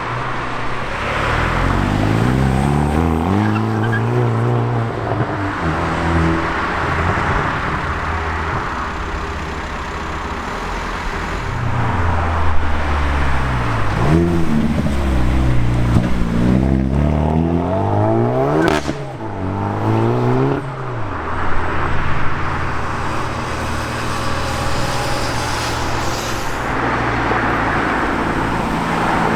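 Hyundai i30N turbocharged 2.0-litre four-cylinder engines revving and accelerating, the engine pitch climbing and falling again and again, with one sharp exhaust crackle about two-thirds of the way in.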